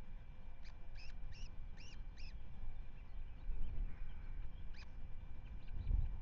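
Osprey calling from the nest: a quick run of about six short, high, squeaky whistled notes, then one more a few seconds later, over a steady low rumble of wind on the microphone.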